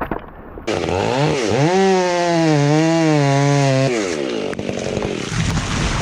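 Large two-stroke chainsaw revving up to high speed about a second in, held at high revs with its pitch wavering slightly, then throttled back near four seconds.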